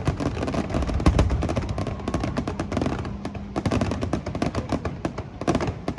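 Fireworks going off in a dense, rapid barrage: many sharp reports a second, overlapping one another.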